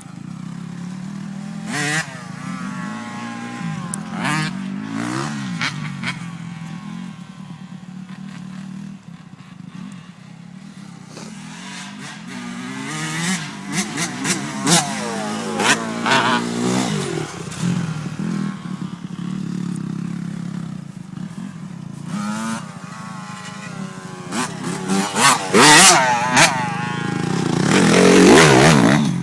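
Dirt bike engines running, a steady engine note underneath repeated revs that rise and fall, with a few sharp clatters; the revving is loudest near the end.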